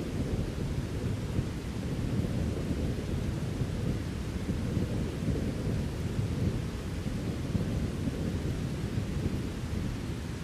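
Thunderstorm: a low, continuous rumble of thunder over a steady hiss of rain, with no sharp cracks.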